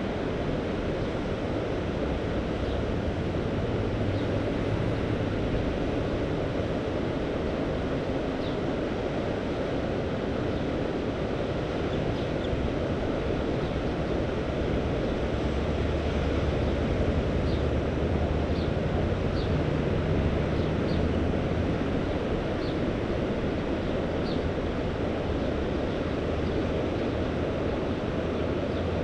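Mediterranean sea waves washing steadily, with low wind rumble on the microphone.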